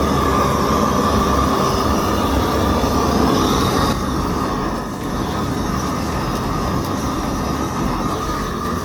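Shinfuji RZ740 large butane gas torch running at full flame with a steady, loud roar, aimed at firewood soaked in water.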